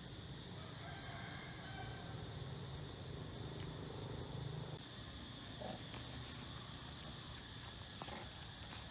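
Steady high-pitched insect drone, with a faint drawn-out animal call from about a second in until just before the middle. A few soft clicks come later.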